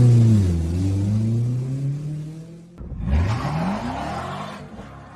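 A car engine revving hard, its pitch dipping and then climbing. About three seconds in it cuts off suddenly, and an engine revs up again with a steeply rising pitch and a hiss over it.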